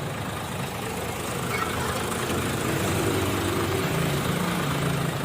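Truck diesel engine running steadily on biodiesel made from used cooking oil, a low steady drone that grows slightly louder about two seconds in.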